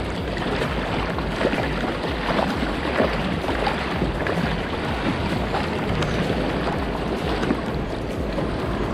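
Wind buffeting the microphone over steady sea-water noise around a fishing kayak.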